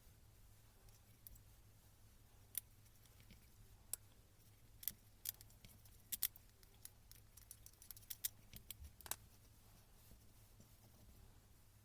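Faint, irregular light clicks and taps of small hard parts and tools being handled during repair work on a rotary hammer, most of them bunched in the middle.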